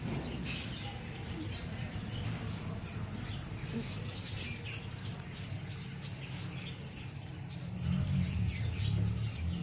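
Small aviary birds chirping in short, scattered calls, over a steady low rumble.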